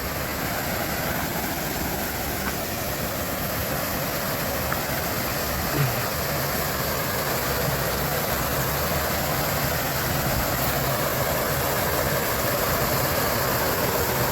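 A small woodland waterfall on a brook, its water rushing steadily and getting slightly louder over the stretch.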